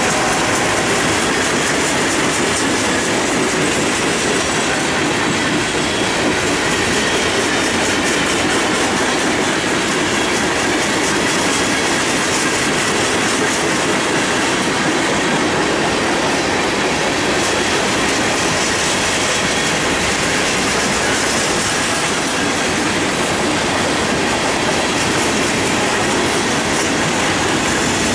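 Freight train cars rolling past: a steady rumble of steel wheels on the rails, with a running clickety-clack as the wheels cross rail joints.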